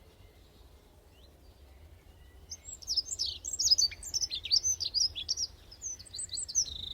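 A songbird singing, starting about two and a half seconds in: a quick, varied run of high chirps, slurred whistles and trills.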